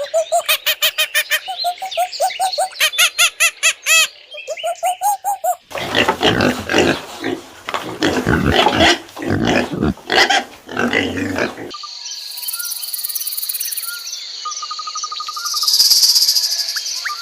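Several animal sounds in turn: a quick run of repeated pitched calls, several a second, for about five seconds; then about six seconds of noisy grunting; then insects buzzing and chirping with a few short bird calls.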